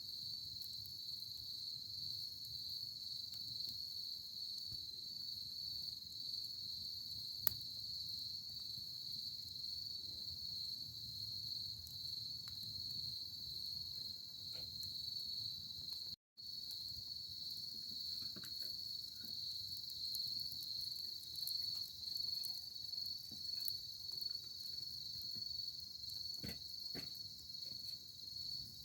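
Crickets trilling steadily at a high pitch, with scattered small snaps of a wood campfire and one sharper pop about seven seconds in. The sound cuts out for an instant about halfway.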